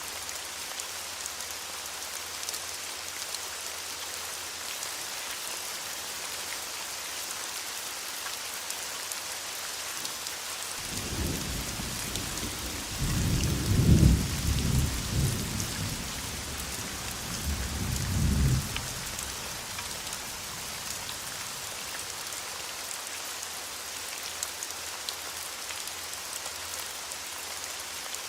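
Steady rain falling on a surface, with a peal of thunder that rumbles in about a third of the way through, peaks, swells once more and dies away, leaving the rain alone again.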